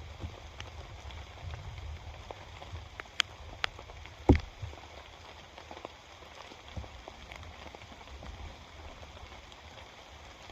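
Steady rain falling on a camping tarp, with scattered sharp drop hits and one loud dull thump about four seconds in.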